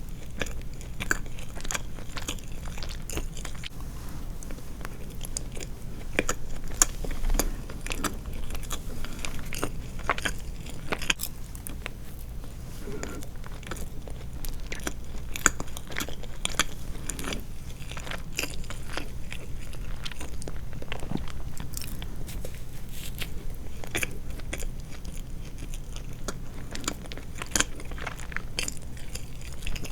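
Close-miked chewing and mouth sounds of someone eating soft sweets, with many small sharp clicks and smacks throughout.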